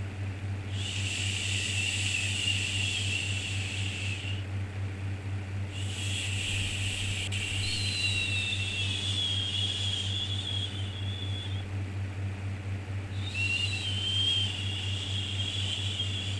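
Repeated long 'shhh' shushing sounds for soothing a baby, three of them, each lasting a few seconds with short pauses between, over a steady low hum.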